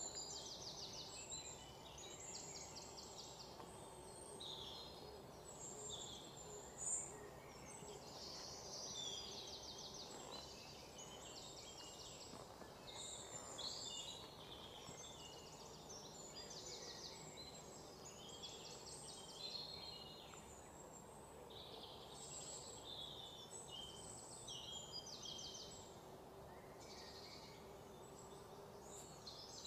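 Faint birdsong: birds chirping and giving short rapid trills again and again throughout, over a low steady background hum, with one soft click about seven seconds in.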